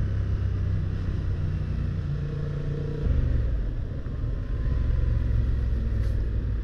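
Motorcycle engine running under way, heard from on the moving bike. The engine note drops about three seconds in, then carries on steadily.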